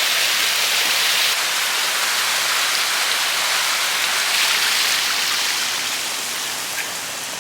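Falling water from a garden water feature: a steady rushing hiss that eases slightly over the last couple of seconds.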